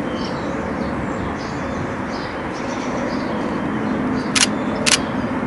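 Two camera shutter clicks about half a second apart near the end, from a Canon 90D DSLR, over a steady background rumble with faint bird chirps.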